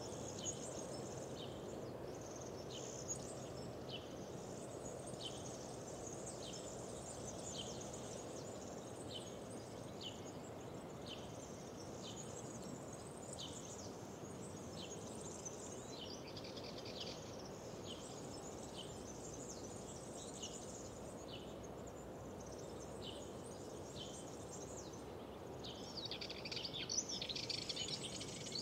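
Wild birds singing in short, high chirps repeated about once or twice a second, with a busier, louder stretch of song near the end. A steady low rushing noise runs underneath.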